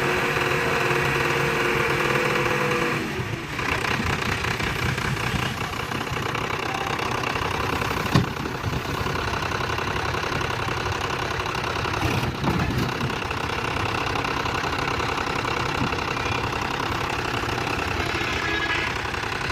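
Tractor diesel engine running steadily with a knocking beat. A steady higher tone sounds over it for the first three seconds and then stops, and there is a single sharp knock about eight seconds in.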